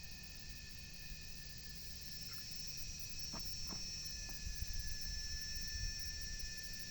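Insects chirring steadily, growing a little louder about halfway through, over a low rumble, with a few faint clicks.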